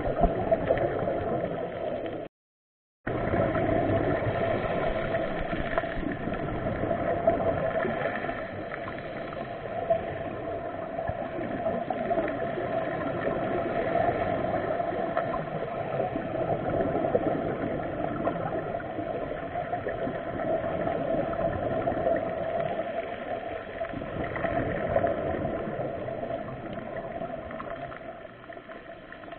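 Muffled underwater noise: a steady motor-like hum with gurgling water, as picked up through a camera's waterproof housing during a sea dive. The sound cuts out completely for under a second about two seconds in.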